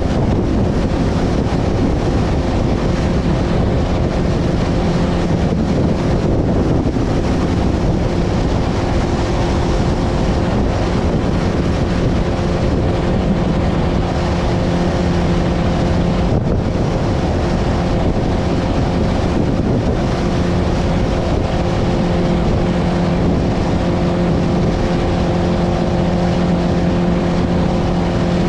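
Motorboat engine running steadily at speed, with heavy wind buffeting the microphone over it.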